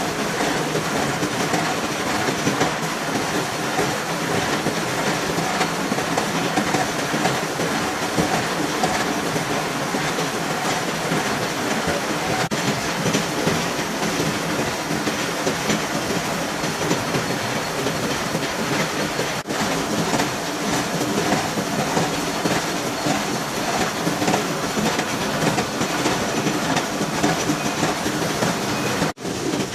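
Gear-cutting milling machine running and cutting gear teeth in metal, a steady dense mechanical clatter, broken by a momentary dropout near the end.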